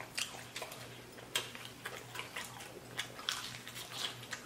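Close-miked eating of fried chicken wings: irregular wet chewing clicks and mouth smacks, a few sharper ones spaced a second or so apart.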